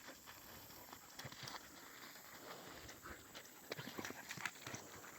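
Dogs play-fighting, heard as faint, scattered taps and scuffles of their feet, which come more often in the second half.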